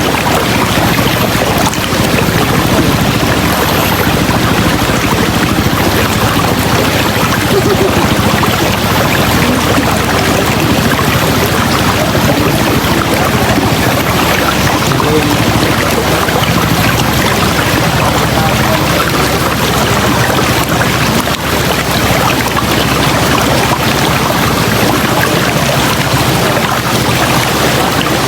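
River water rushing over rocks in a steady, loud stream.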